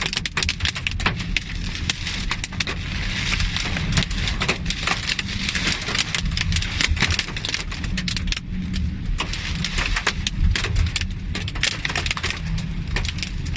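Heavy rainstorm with strong gusting wind: wind rumbling on the microphone under a dense, continuous crackle of rain and debris striking surfaces.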